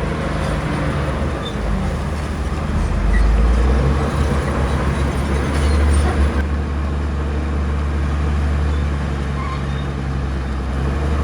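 Heavy diesel earthmoving machinery running steadily with a deep rumble, growing louder briefly twice, about three seconds in and again about six seconds in.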